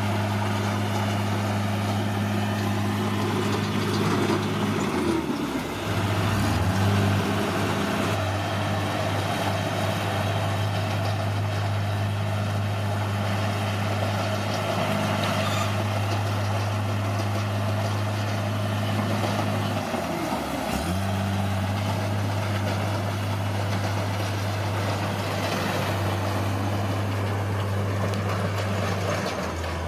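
Bulldozer's diesel engine running steadily at working revs. Its pitch drops and recovers briefly twice, about five seconds in and again about twenty seconds in.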